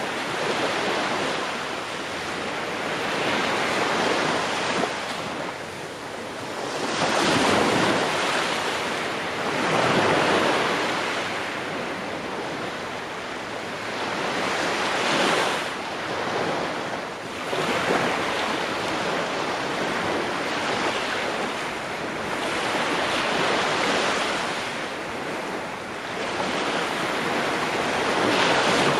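Ocean waves breaking on a shore, a continuous rush of surf that swells and eases with each wave, several surges a few seconds apart.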